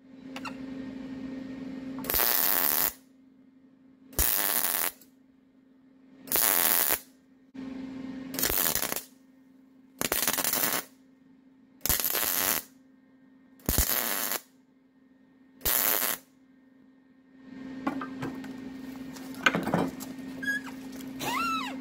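MIG wire-feed welder laying a series of short tack welds: eight crackling arc bursts, each under a second, about every two seconds, with the welder's steady hum between them. Near the end come some rougher handling noises with a few squeaks.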